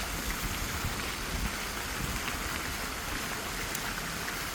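Steady splashing and running water from a garden water feature.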